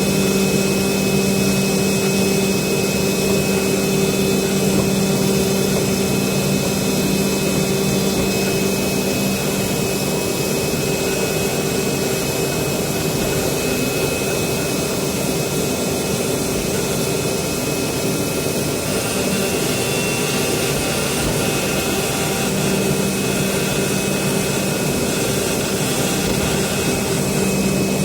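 Automatic CNC vibrating-knife fabric cutting machine running: a steady rushing, vacuum-like noise with a constant hum on top. The lower part of the hum drops away about a third of the way in and comes back near the end.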